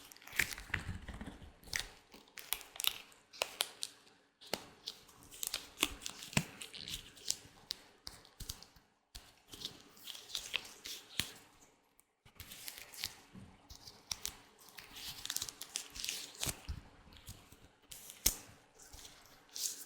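Latex gloves rubbing, stretching and crinkling in a run of short crackling sounds, with a few brief pauses.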